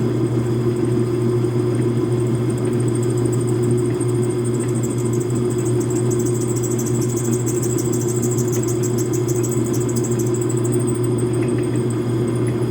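Metal lathe running steadily with a low motor hum, with a fast, high-pitched rhythmic ticking of the work turning against the tool from about three seconds in until near the end.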